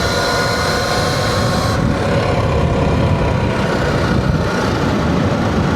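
Surron Light Bee electric dirt bike being ridden: a steady loud rush of wind and road noise on the microphone, with a faint steady whine from the electric drive underneath.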